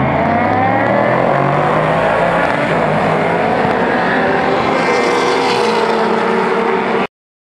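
Several sports sedan race cars passing at racing speed, their engine notes rising and falling over one another as the pack goes by. The sound cuts out abruptly for a moment near the end.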